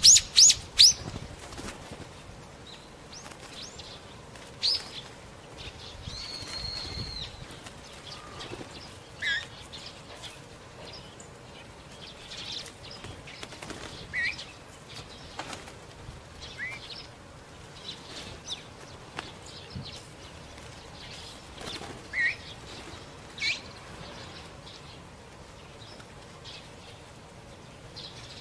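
Wild birds giving short chirps spaced out over several seconds, a few louder sharp calls standing out, with wing flapping.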